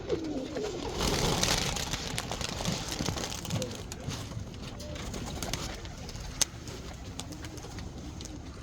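Roller pigeons cooing in a loft, with a burst of rustling about a second in and a single sharp click later on.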